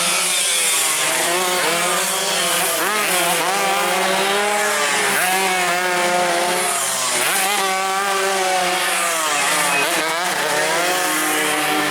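Several tuned two-stroke racing motorcycles running flat out in a 140cc open class, their buzzing engines overlapping. Each engine's pitch climbs and then drops again and again as the bikes shift through the gears and sweep past.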